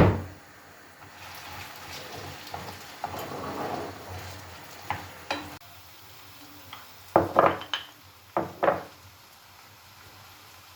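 Cooking in a pan: a utensil stirs and scrapes food for a few seconds with a light sizzle, then clacks sharply against the pan or dishes five or six times about two-thirds of the way through.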